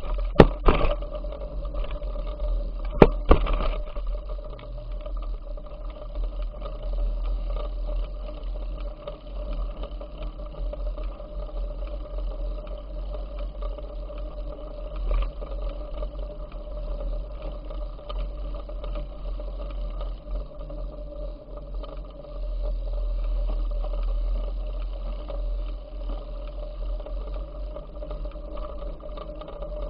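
Riding a bicycle: steady low wind rumble on the microphone over a constant hum, with a few sharp knocks or rattles in the first few seconds.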